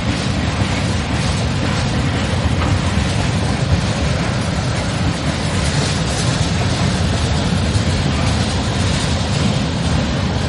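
Freight train cars rolling past: a loud, steady rumble of steel wheels running on the rails.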